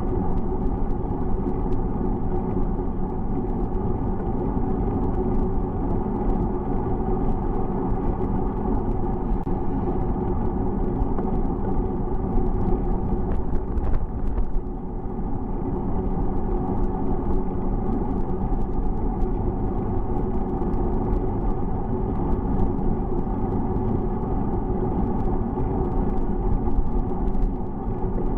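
Steady low rumble of wind and road noise from riding a bicycle, with a brief dip about halfway through.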